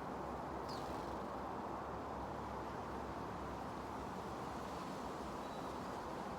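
Steady wind noise outdoors, with one short high chirp from a small bird under a second in.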